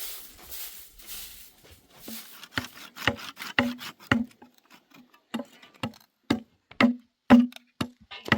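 A soft rustling, then from about two and a half seconds in a steady run of sharp knocks, about two a second and growing louder, each with a short hollow ring.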